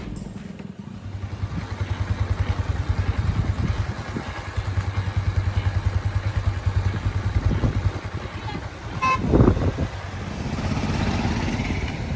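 Motorcycle running under way on the road, a steady pulsing low rumble. A short vehicle horn toot sounds about nine seconds in.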